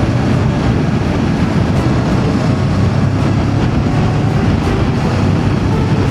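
Voge DS525X parallel-twin engine running at a steady cruise, with wind rushing past on the move.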